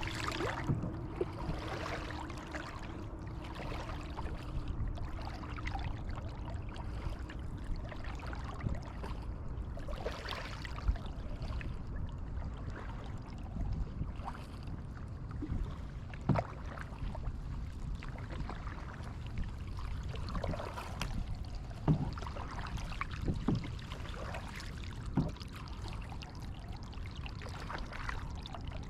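Kayak paddling: water splashing and trickling off the paddle blades as they dip, over a low steady rumble. A few sharp knocks sound through it.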